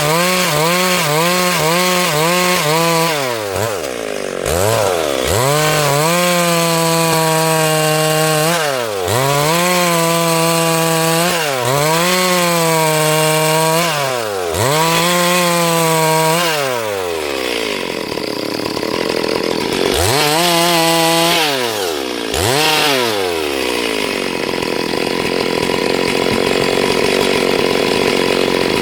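Two-stroke chainsaw running hard while ripping a log lengthwise. Its pitch drops and climbs again about six times. In the last third the clear engine note gives way to a rougher, noisier cutting sound.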